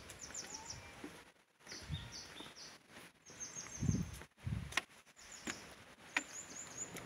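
Small birds chirping in quick runs of short, high notes, with a few sharp knocks and two low thumps about halfway through from footsteps on a wooden stairway.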